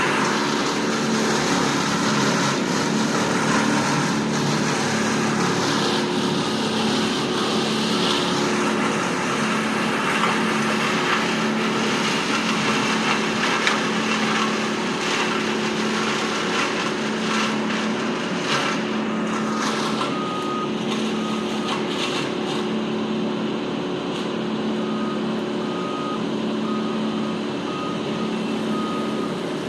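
Heavy diesel work machinery running, with a backup alarm beeping steadily about once a second; a second, higher-pitched reversing beeper joins about halfway through. A cluster of sharp knocks and cracks comes in the middle.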